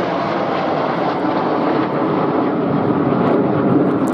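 Jet engine noise from the Red Arrows' BAE Hawk T1 jets flying their display, a steady rushing noise that grows a little louder and deeper towards the end.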